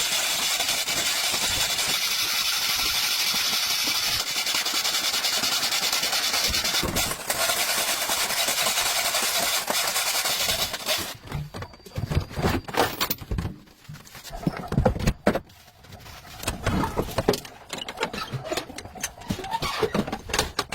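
A machine runs with a steady, hissing noise for about eleven seconds and then stops abruptly, followed by scattered knocks and clatter.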